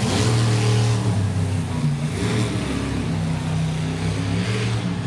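Monster truck's supercharged V8 engine revving, its pitch stepping up and down several times.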